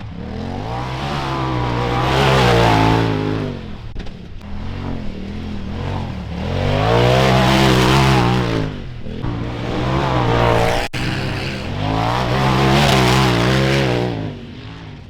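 Polaris RZR side-by-side's engine revving, climbing and then falling in pitch three times as the throttle is opened and eased off.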